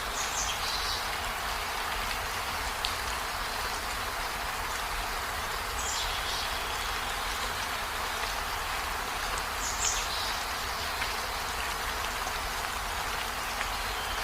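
Steady rain falling, an even hiss, with a few brief high chirps near the start, about six seconds in and about ten seconds in.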